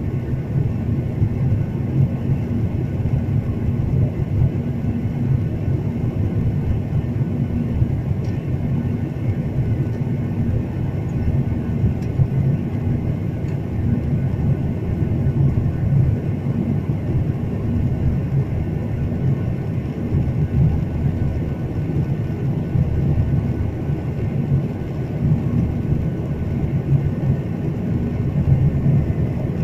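Steady low rumble of a jet airliner's engines and rushing air, heard inside the passenger cabin, with a faint steady hum.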